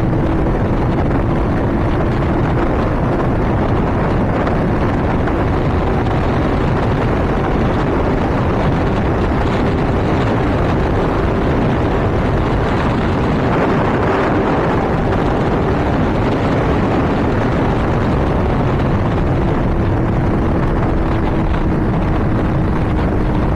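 Honda CBR600RR inline-four engine holding a high, steady note at Autobahn speed under heavy wind rush on a helmet microphone. The pitch creeps up slightly partway through and eases off a little near the end.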